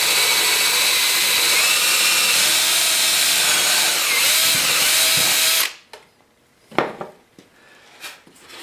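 Power drill running steadily as a brad point bit bores a 3/8-inch hole, half an inch deep, through a doweling jig into birch plywood; it stops suddenly about five and a half seconds in. A few light knocks follow.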